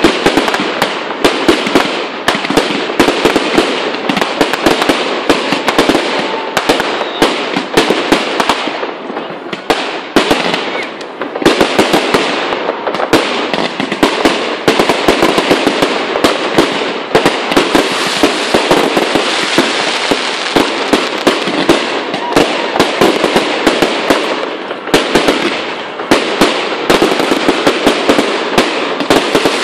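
Fireworks display: rockets and aerial shells bursting in a dense barrage of bangs and crackling, many reports a second, easing off briefly about nine seconds in before building again.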